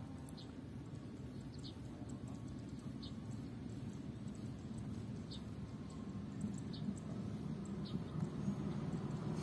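Low rumble of an approaching diesel locomotive hauling a passenger train, still distant and growing slowly louder. Over it, a bird gives short high chirps about once a second.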